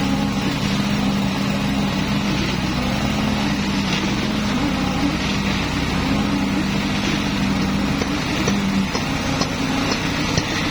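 Steady engine noise from concrete-pouring machinery running continuously during a slab pour, with a steady hum that drops away about nine seconds in.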